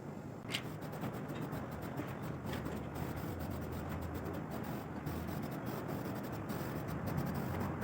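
Hand work with rubbing and scraping and scattered light clicks, over a steady low background noise; one sharper click about half a second in.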